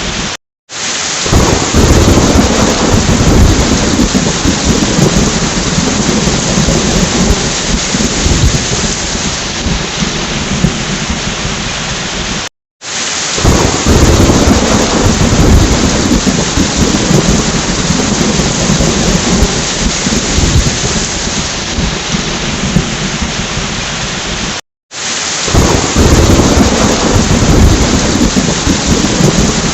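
Heavy rain falling steadily with low rumbling thunder. The recording is a loop that cuts out to silence for a split second three times, about every twelve seconds, and the rumble swells right after each restart.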